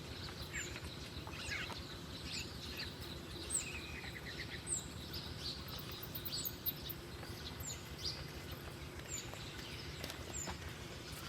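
Wild birds chirping: short high calls scattered throughout, with a quick rattling run of notes about four and a half seconds in, over a steady low background hum.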